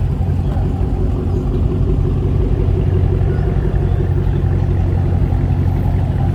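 Car engines idling and running low and steady as show cars roll in slowly, a deep rumble with no revving.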